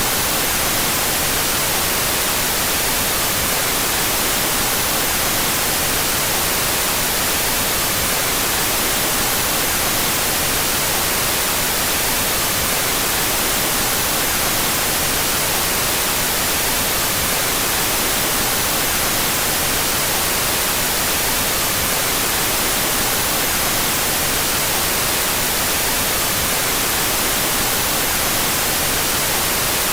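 Out-of-phase white noise, generated with its two stereo channels in opposite phase: a steady, unchanging hiss, strongest in the treble.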